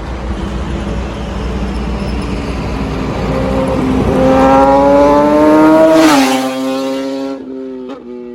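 Kawasaki ZX-10R inline-four superbike with an aftermarket full-system exhaust doing a flyby. Its engine note climbs steadily as it approaches under acceleration, then drops sharply in pitch as it passes about six seconds in, and fades away.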